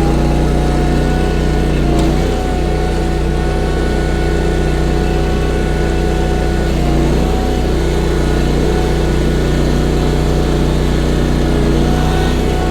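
Engine of a Baumalight WRL58G stand-on mini skid steer running steadily at maximum RPM to drive a hydraulic 46-inch snowblower. The engine note dips slightly about two seconds in.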